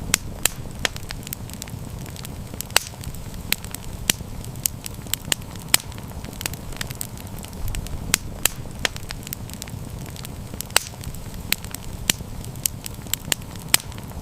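Campfire burning with frequent sharp, irregular crackles and pops over a steady low rumble of the flames.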